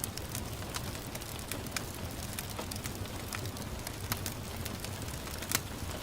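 Wood fire crackling, with irregular small pops and two sharper snaps about four and five and a half seconds in, over a steady hiss of gentle rain.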